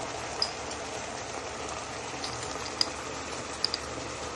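Chicken, onion and peppers with spices frying in a pan, a steady sizzle with a few sharp pops and crackles.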